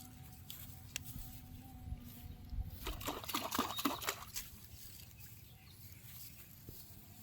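Water splashing in a quick flurry of splashes lasting about a second, midway through, over a faint steady hum.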